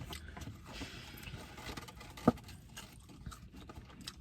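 Quiet handling and eating noises: soft scrapes, rustles and small clicks of food and takeout containers, with one sharp tap about halfway through.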